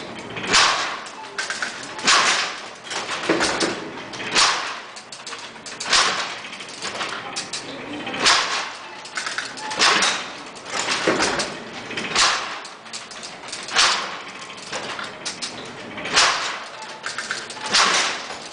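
Babbage Difference Engine No. 2 running, its metal mechanism clattering and clanking in a repeating cycle, with a loud peak about every two seconds and smaller clicks between, as it calculates a seventh-degree polynomial.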